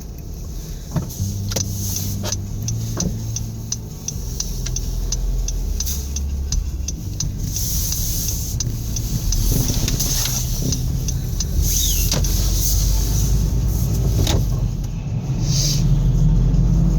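A car driving, its engine humming and picking up a little as it goes, with scattered sharp clicks and knocks over the top.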